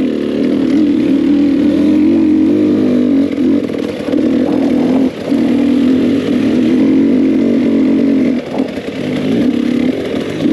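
Husqvarna TE300 TBI two-stroke dirt bike engine running through its FMF exhaust under steady throttle, the note dipping briefly about five seconds in and again around eight and a half seconds in as the throttle is eased.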